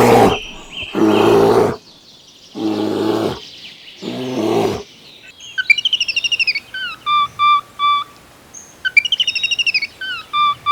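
Four loud bleats, about a second apart, then a bird calling: quick runs of falling chirps, each followed by a few short, evenly pitched notes, heard twice.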